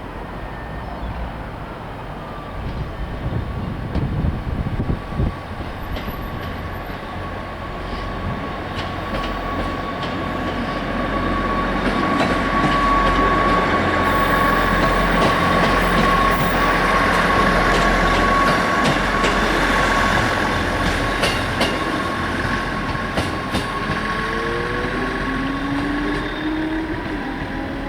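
Class 158 diesel multiple unit pulling away under power: diesel engines running with a steady whine, wheels clicking over rail joints. It grows louder to a peak about halfway through, then eases as it moves off.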